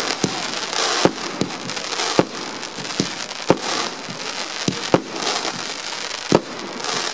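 Fireworks display: a string of sharp bangs from bursting aerial shells, irregular at about one to two a second, over a continuous hiss.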